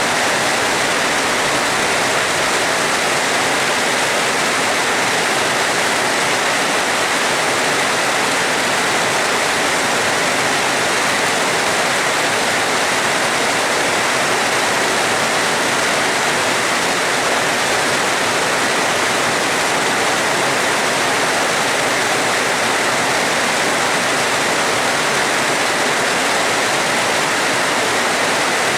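Heavy rain falling, a steady, even rush with no thunder claps or other sudden sounds.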